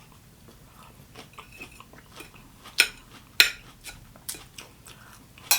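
Eating utensil clinking against a dish while eating egg salad, a few sharp clinks in the second half over quiet handling.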